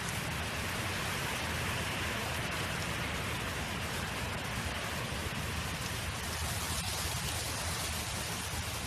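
Wind blowing across an open field: a steady, even rushing hiss with a low rumble underneath.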